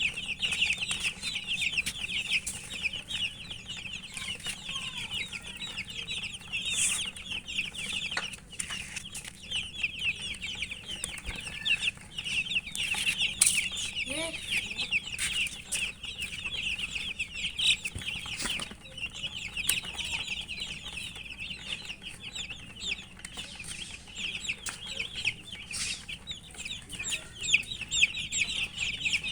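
Domestic chicken chicks chirping continuously, many high peeps overlapping, with scattered short pecking clicks as they eat.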